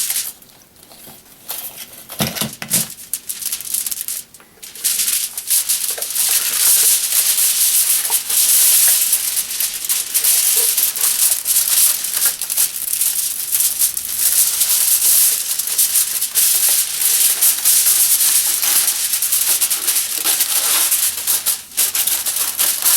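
A sheet of household aluminum foil crinkling and crackling as it is handled, quieter for the first few seconds and then continuous.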